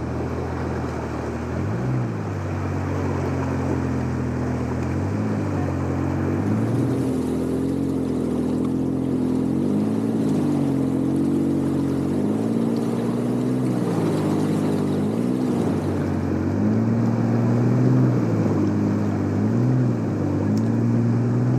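A four-wheel-drive vehicle's engine running under way, its pitch rising and falling every few seconds as the revs climb and drop back.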